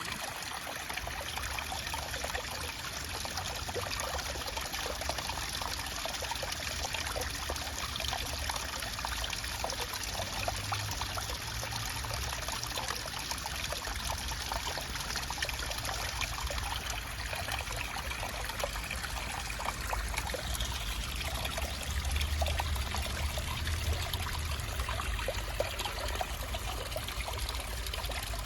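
Running water trickling and splashing steadily, as in a small stream, over a low rumble.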